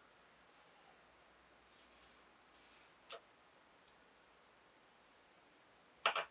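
Quiet room with a few faint, short scratching strokes, like writing on paper, and a brief louder double rustle near the end.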